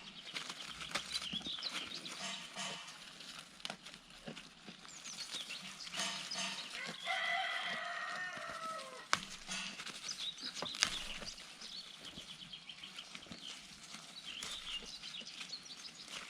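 Birds flapping their wings with scratchy clicks and rustling, and one long drawn-out call, falling slightly in pitch, about seven seconds in.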